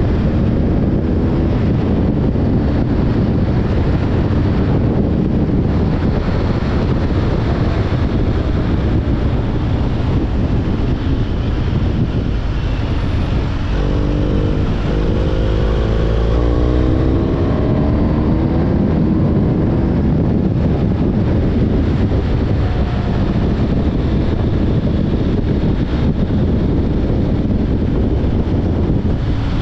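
BMW R 1250 GS boxer-twin engine running on the move, under heavy wind noise on the microphone. Near the middle the engine note climbs in a few rising sweeps.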